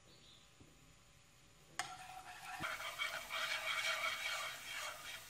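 Chopped scallion whites sizzling in hot oil in a nonstick pan as wooden chopsticks stir them. Very faint at first; about two seconds in the crackling sizzle starts suddenly and carries on.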